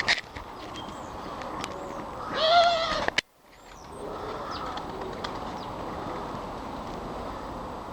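Garden birds making short, faint chirps over a steady background hum. About two seconds in comes one loud, drawn-out pitched call that rises and falls. A moment later the sound cuts out briefly.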